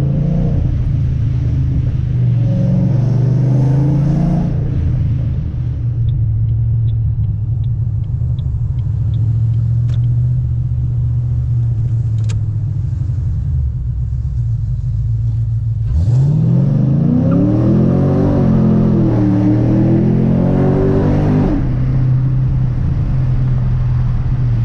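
2007 Ford Mustang GT's 4.6-litre three-valve V8 breathing through long-tube headers, an X-pipe and Borla S-Type mufflers, running with a steady deep exhaust rumble. About two-thirds of the way through it accelerates hard: the revs climb, dip once and climb again, then fall back to the steady rumble.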